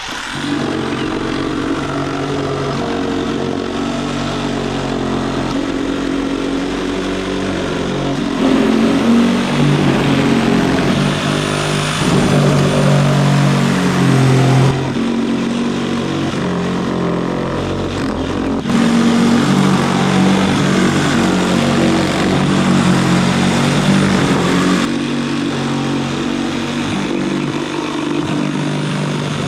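Reciprocating saw running and cutting through wooden deck framing, its motor pitch shifting as the blade loads up, with two louder stretches about a third and two-thirds of the way in.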